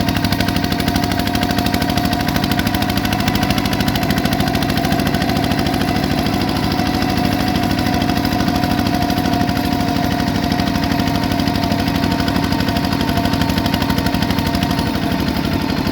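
Bulldozer's diesel engine running steadily with a rapid, even clatter and a steady whine over it.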